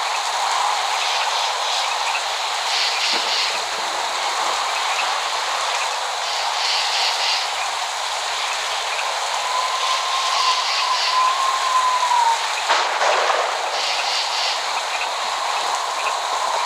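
Steady rain falling, an even hiss, with a short high call repeating every three to four seconds, a faint whistling tone in the second half, and a sharp click near the end.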